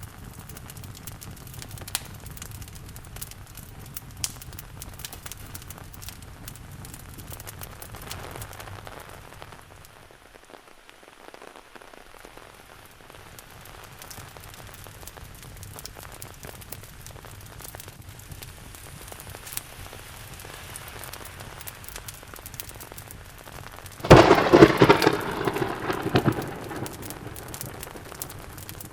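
Steady rain with scattered sharp crackles from a wood fire, and a sudden loud clap of thunder near the end that rumbles away over a couple of seconds.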